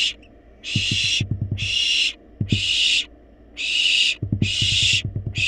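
Barn owl nestlings giving their hissing begging calls for food: about five harsh hisses of half a second each, roughly one a second. Soft low knocks sound between them.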